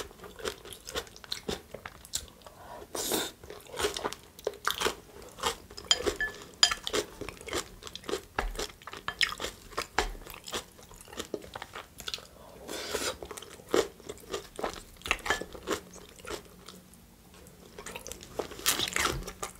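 Close-miked chewing of a Greek salad with leafy greens: many short, crisp crunches in quick succession, with a brief quieter stretch near the end.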